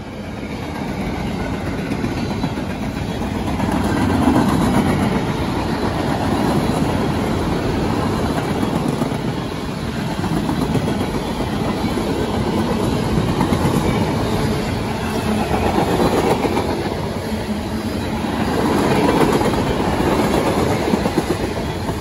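Freight cars of a passing CSX train (boxcars, covered hoppers and tank cars) rolling by close to the track. Steel wheels rumble on the rails with a run of clicks, in a steady din that swells and eases every few seconds as the cars go past.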